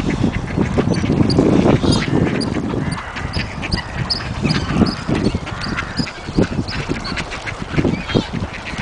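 Ducks quacking over and over, with a loud low rumble underneath for the first few seconds.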